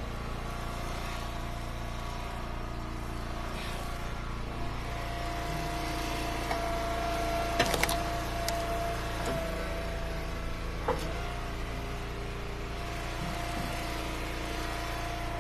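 Eastonmade Ultra wood splitter's engine running steadily with a steady whine, with two sharp knocks about eight and eleven seconds in.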